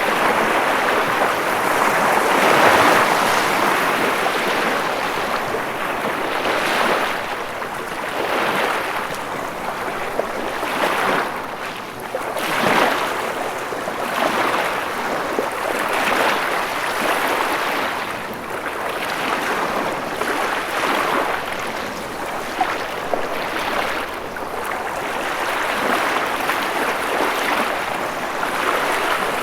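Ocean waves washing in, a continuous rush of surf that swells and ebbs every few seconds.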